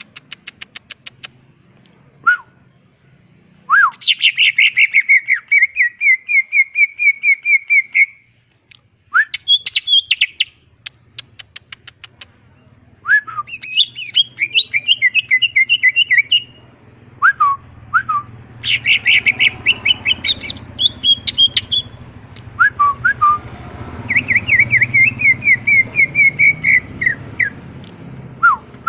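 Cucak ijo (green leafbird) song: loud bursts of rapid, chattering chirps and trills a few seconds long, separated by short pauses, with single quick upward notes between the bursts. A low background hum comes in about halfway through.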